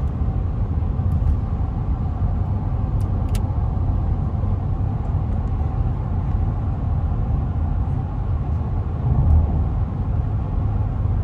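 Steady low rumble of a car driving at highway speed, heard from inside the cabin: tyre and road noise with the engine underneath, with a couple of faint ticks about three seconds in.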